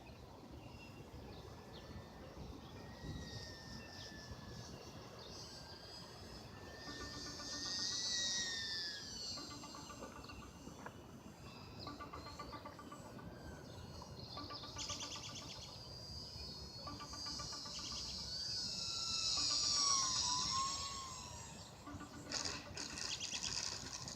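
Electric motor and propeller of a UMX P-47 model plane whining as it flies, the pitch gliding up and down and swelling in two passes about 8 and 20 seconds in, with a falling pitch after the second. Birds or insects chirp in the background.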